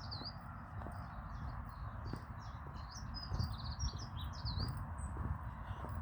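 A songbird singing a quick run of high chirping, twittering notes that stops about five seconds in, over footsteps on a path at a steady walking pace.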